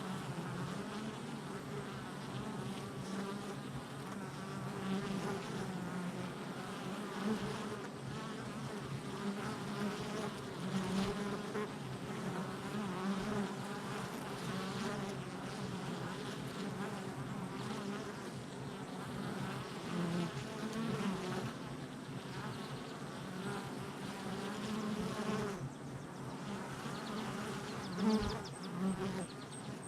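Honey bees buzzing at a hive entrance: a dense, steady hum of many wingbeats, with single bees flying close past and swelling briefly louder, one loudest near the end.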